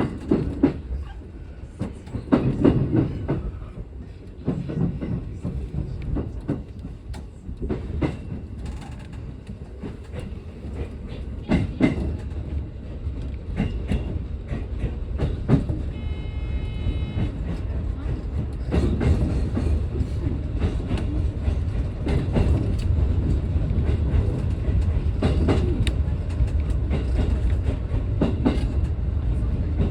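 Train running, heard from inside the car: a steady low rumble with wheels clacking over rail joints. A brief high electronic tone sounds near the middle, and the running noise grows louder about two-thirds of the way through.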